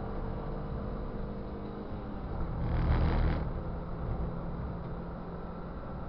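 Ford Fiesta race car's engine running at speed, heard through an onboard camera inside the car, over a steady rush of road and wind noise. A louder burst of rumble rises and falls about three seconds in.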